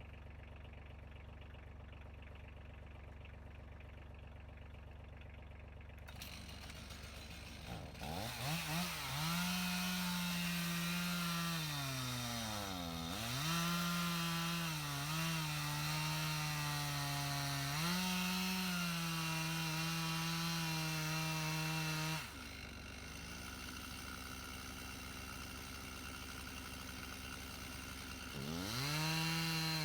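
Chainsaw revving up and cutting into a pine log, its pitch sagging and recovering as the chain loads in the cut. It drops back to idle for several seconds and revs up again near the end. A low engine hum runs underneath.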